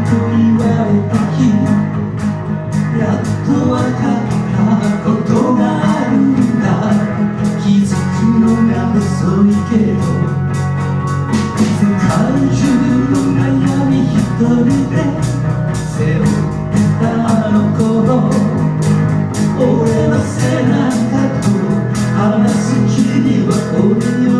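Live band music: drum kit keeping a steady beat under bass and guitar, with no clear lead vocal.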